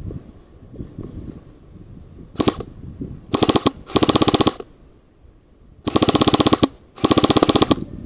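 Airsoft gun firing on full auto: five quick bursts of rapid, evenly spaced shots, a short one first, then two pairs of longer bursts with brief pauses between.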